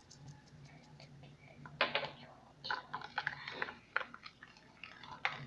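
Irregular clicks and sticky crackles of slime ingredients being handled and mixed by hand, starting about two seconds in, over a low steady hum.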